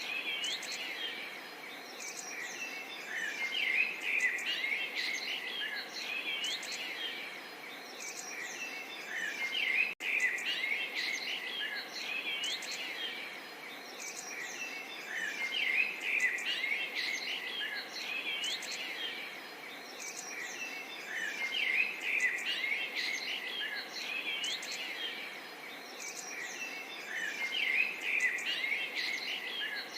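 A dense chorus of many small birds chirping and twittering at once, quick overlapping calls over a steady faint background hiss, with a momentary break in the sound about ten seconds in.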